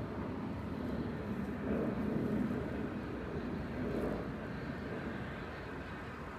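A train running on the tracks: a steady low rumble that swells briefly about two seconds in and again around four seconds.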